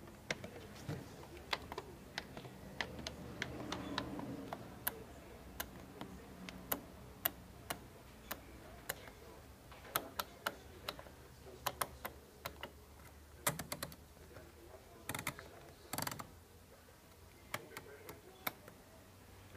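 Washing machine controls being worked by hand: a long string of irregular mechanical clicks, with a couple of louder clunks near the end.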